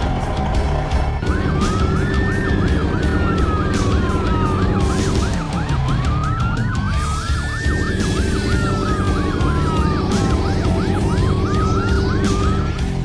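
Emergency vehicle siren wailing in slow rising and falling sweeps, with a faster yelping siren overlapping it, starting about a second in, over background music with a steady beat.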